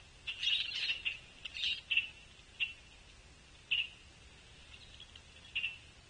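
Short, sharp bird calls: a quick flurry about half a second in, then single calls repeated about once a second.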